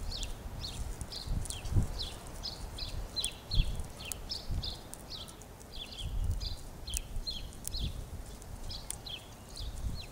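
Small birds chirping over and over, short falling chirps several a second, with a few low thumps underneath.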